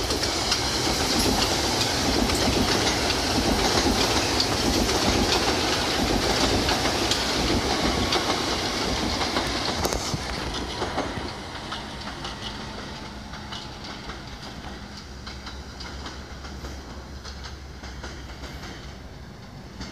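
Metro-North commuter train running past close on the tracks, its wheels clacking over the rails. The sound drops off after about ten seconds to a quieter rumble as the train moves away.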